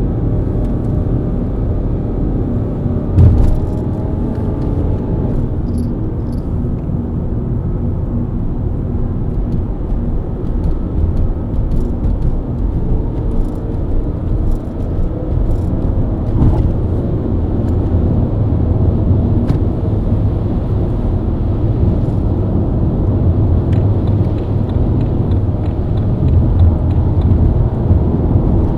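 BMW E90 323i inline-six engine running at highway speed, with steady road and tyre rumble. A single sharp thump comes about three seconds in.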